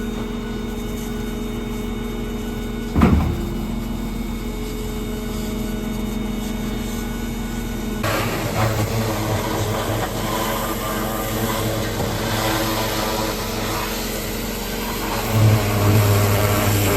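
Concrete pump truck's diesel engine running steadily, with a sharp knock about three seconds in. About eight seconds in it turns louder and rougher, and it swells again near the end.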